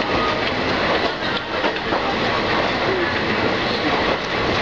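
Passenger train coaches rolling past close by: a steady rumble of steel wheels on the rails, with scattered clicks.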